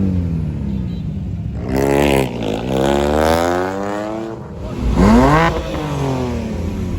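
Car engine revving repeatedly, its pitch falling, climbing and falling again; the loudest rev is a quick one about five seconds in.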